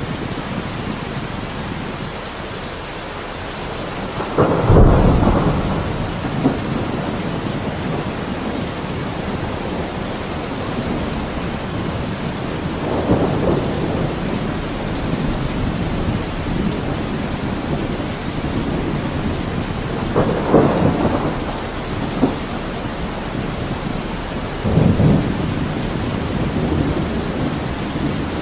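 Thunderstorm: steady rain with four rolls of thunder, the loudest about four seconds in.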